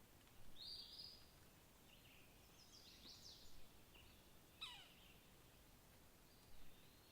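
Faint, scattered calls of wild birds over a quiet, steady outdoor background: a call about half a second in, a short run of chirps around three seconds, a quick downward-sweeping note near five seconds, and one more short call near the end.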